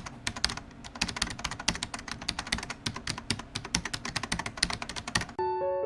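Rapid, irregular clicking like typing on a keyboard, several keystrokes a second. Near the end the clicking stops and soft piano music begins.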